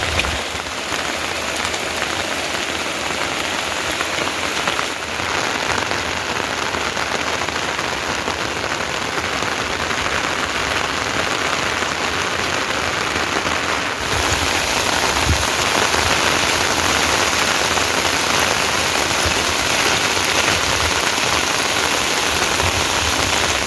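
Steady rain falling, a dense even hiss that gets louder about halfway through.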